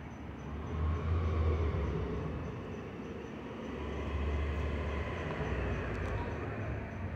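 DART light rail train moving along the track, with a low rumble that swells about a second in and a faint steady whine above it.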